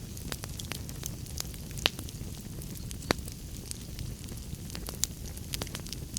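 Wood fire burning in a fireplace: a steady low rumble of flames with irregular sharp crackles and pops, two of them louder about two and three seconds in.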